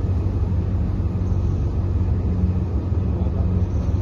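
Steady low rumble of a car engine running, a constant drone with no revving.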